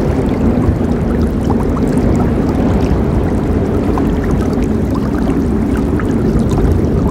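River water rushing and gurgling in a steady low, heavy flow, with small splashes and trickles flicking over it.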